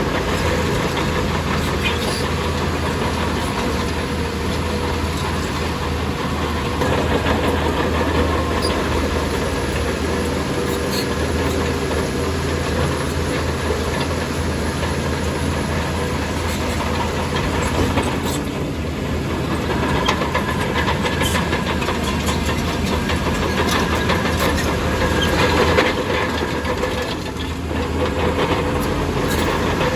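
Crawler bulldozer working: its diesel engine runs steadily under load while the steel tracks clank.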